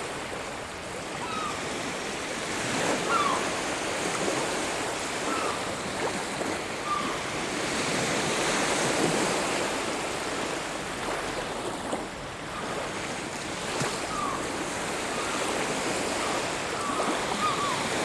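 Sea waves breaking and washing on a beach, swelling and easing, with short bird calls now and then.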